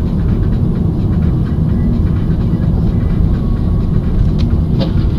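A vehicle on the move: a loud, steady low rumble of road and engine noise, with two short clicks near the end.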